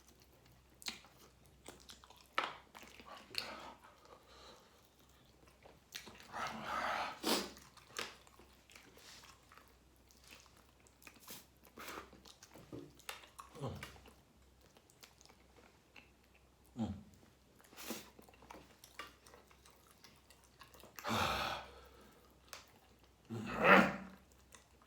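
A person chewing and biting into chicken wings close to the microphone: scattered wet clicks and crunches, with a few louder mouth noises or breaths about 7 seconds in, around 21 seconds and, loudest, near the end.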